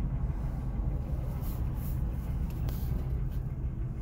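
Steady low rumble inside a stopped car's cabin: the engine idling, with cross traffic going by outside.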